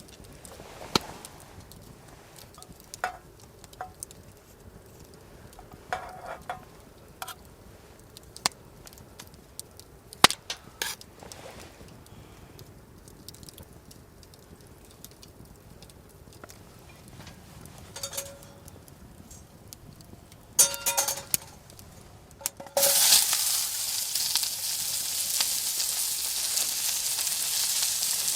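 Scattered clinks and knocks of cooking utensils and cookware. Near the end, loud sizzling starts suddenly as food goes into a hot pan and keeps frying.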